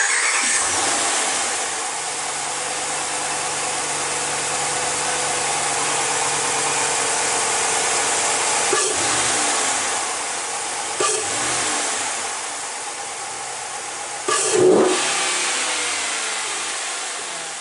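A 5.7-litre Hemi V8 in a Ram 1500 pickup, fitted with a K&N cone-filter intake, fires up and settles into a steady idle with a strong intake hiss. Three short bursts rise over the idle about nine, eleven and fourteen seconds in, the last one the loudest, and the sound fades near the end.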